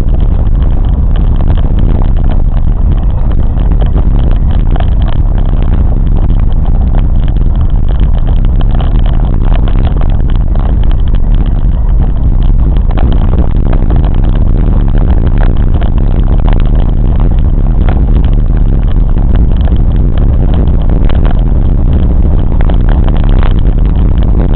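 Train in motion: a steady loud rumble with many small clicks and rattles over it.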